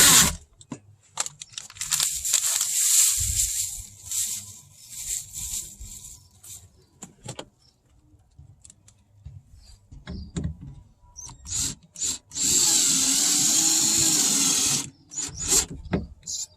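Power drill driving a screw to fix a car door speaker in place. It runs in short bursts, the longest and loudest for about two and a half seconds near the end, with clicks and handling knocks in between.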